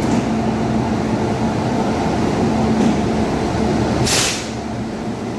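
Indian Railways electric locomotive rolling slowly past along the platform as it arrives with its train: a steady rumble with a constant low hum. A short hiss comes about four seconds in.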